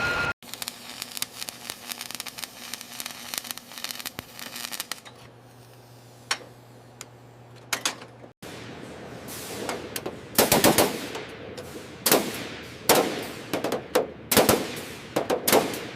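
A rapid series of sharp knocks and clatter in several abruptly cut sections. It is light and dense at first, quieter in the middle, and loud and irregular in the second half.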